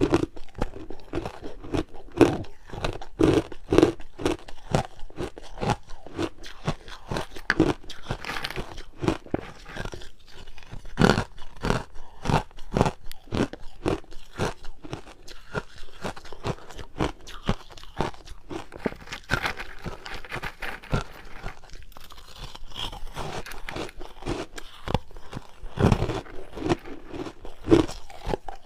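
Ice being bitten and chewed: a dense run of sharp, irregular crunches and crackles, close to the microphone.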